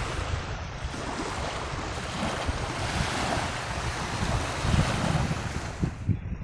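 Strong sea wind with surf, the wind buffeting the microphone in low gusts. The rushing thins out near the end.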